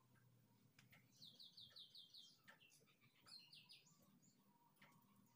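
Faint bird chirping: a quick run of about seven short high notes about a second in, then a shorter run a little after three seconds, over near-silent room tone.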